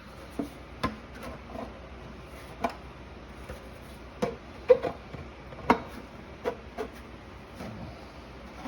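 Irregular light clicks and knocks of a hard plastic 3D-printed part being handled and slid into place on a skateboard, about a dozen in all, the loudest a little under five and six seconds in.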